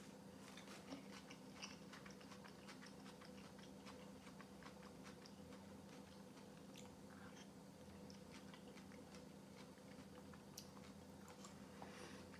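Close, quiet mouth sounds of eating kholodnik, a cold beetroot soup, from a spoon: soft chewing with many small wet clicks, over a faint steady hum.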